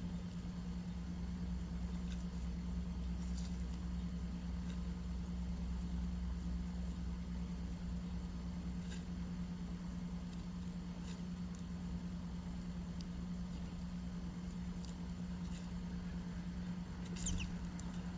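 Steady low hum, with faint scattered ticks and, near the end, one short high chirp that falls in pitch.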